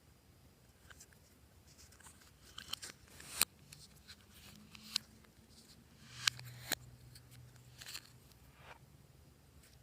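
Slime being squished and pressed by hand, giving scattered sticky clicks and pops, a few of them sharp and loud, with softer crackling between.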